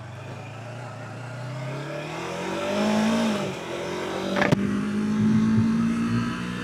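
Sportbike engine pulling away from idle: the revs climb, drop back as it shifts up, then hold a steady higher note. There is a single sharp click about four and a half seconds in.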